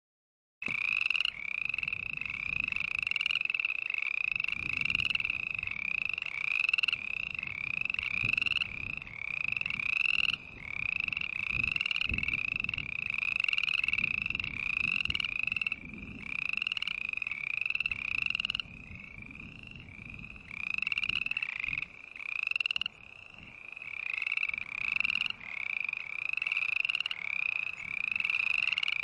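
Frogs calling in a chorus: short rising calls repeated about twice a second and overlapping one another.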